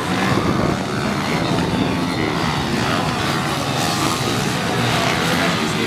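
Several pit bikes racing together, their small single-cylinder four-stroke engines revving and blending into a dense, steady buzz.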